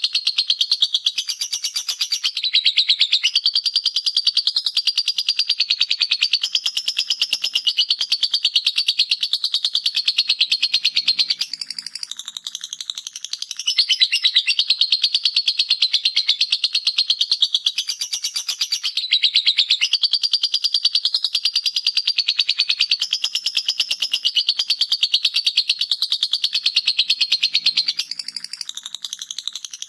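Lovebird 'ngekek' song: a long, unbroken run of fast, high-pitched chattering. It eases off briefly about twelve seconds in and again near the end.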